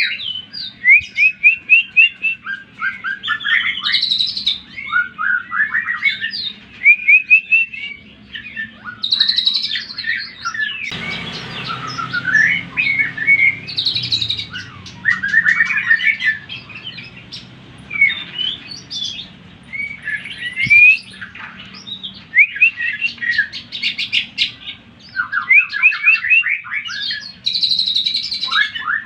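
Greater green leafbird (cucak ijo) singing loud, varied phrases of rapid chirps and trills with short pauses between them. This is a provocation song meant to rouse other cucak ijo. A low hiss sits under the song for a few seconds near the middle.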